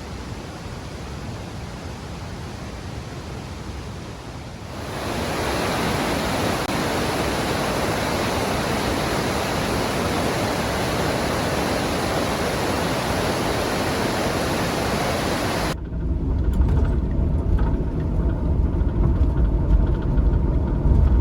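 Rushing river water, a steady hiss that gets louder about five seconds in. About sixteen seconds in it cuts to a low rumble of road noise inside a moving van.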